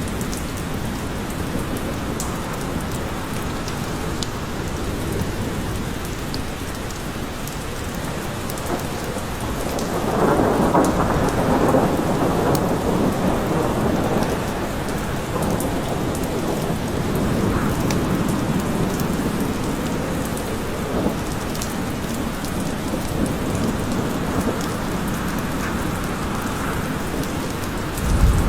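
Steady heavy rain falling in a forest, with a long roll of thunder that swells about ten seconds in and rumbles on for several seconds, then a fainter roll after it.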